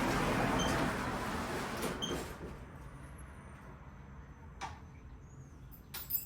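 1969 Triumph T100's parallel-twin engine running, then cut off about two seconds in, followed by a few light clicks and knocks.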